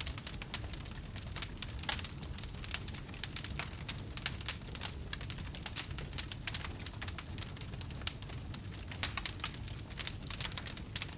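Wood fire crackling: dense, irregular snaps and pops of burning wood over a low, steady rumble.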